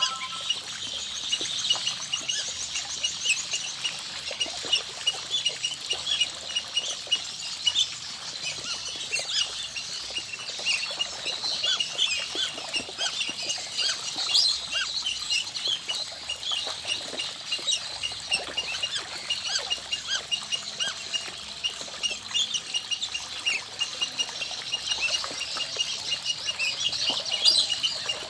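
A flock of whistling ducks calling while feeding: a dense, unbroken chatter of many short, high peeps and whistles.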